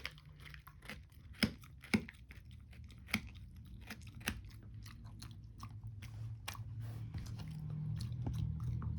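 A dog chewing a rawhide bone: irregular crunches and clicks, with a few sharper cracks in the first half as she gnaws a piece off. A low steady hum grows louder in the second half.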